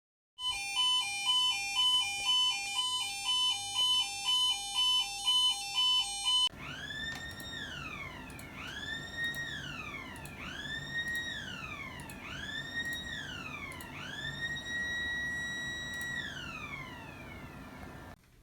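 Electronic alarm sounder: for about six seconds it alternates rapidly between two tones, then switches to a slow siren sweep that rises, holds and falls, repeating about every two seconds, with the last sweep held longer.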